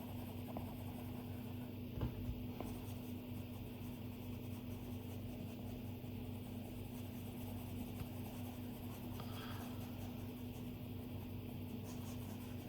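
Stylus drawing on an iPad's glass screen: faint scratchy strokes and light taps, with a couple of sharper taps about two seconds in, over a steady low hum.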